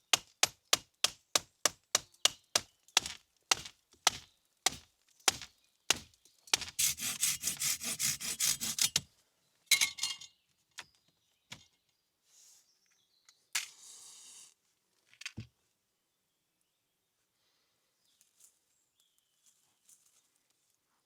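Wood being chopped: a quick run of sharp chopping strikes, about three a second, that slows over the first six seconds. Then comes a couple of seconds of continuous scraping noise and a few last knocks before it goes quiet.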